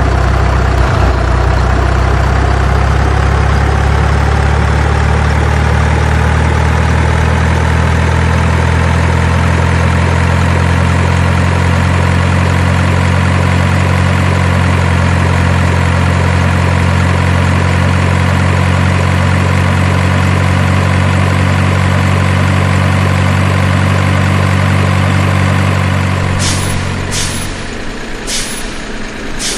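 Diesel truck engine running steadily, its pitch rising slowly through the first half. Near the end a few short air-brake hisses sound and the engine cuts off.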